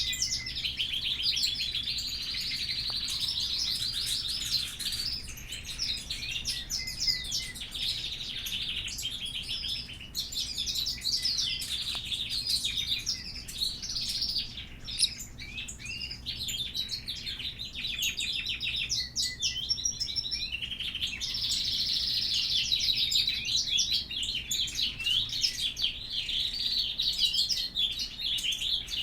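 A group of small birds chirping and twittering together, many quick overlapping calls with no break, thinning a little in the middle and swelling again near the end.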